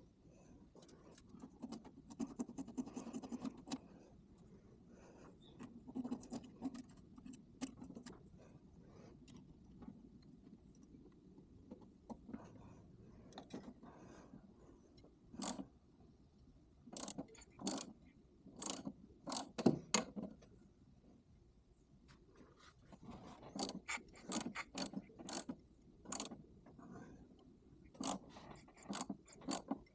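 Hand tools and metal parts being handled on the VW Beetle's engine: scattered sharp clicks, clinks and scrapes, bunching into quick runs in the middle and toward the end.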